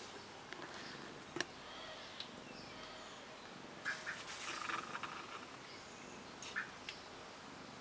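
Small birds chirping in short bursts over faint steady outdoor background noise; the busiest chirping comes about four to five seconds in, with a couple more calls near the end. A single sharp click sounds about a second and a half in.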